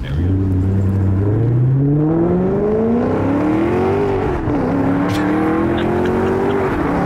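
Maserati GranTurismo S's 4.7-litre Ferrari-derived V8 accelerating hard, heard through the open window. The engine note climbs steadily, dips at a gear change about four and a half seconds in, then climbs again to another shift near the end.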